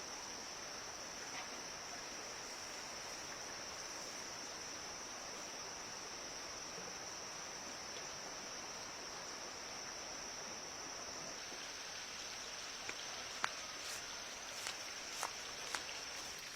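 Insects, such as crickets, calling in a steady high-pitched drone over faint outdoor hiss, with a few sharp clicks near the end.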